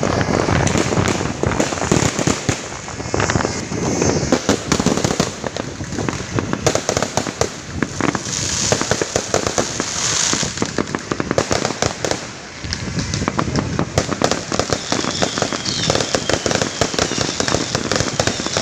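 New Year fireworks going off without a break: a dense, rapid run of crackling pops and bangs.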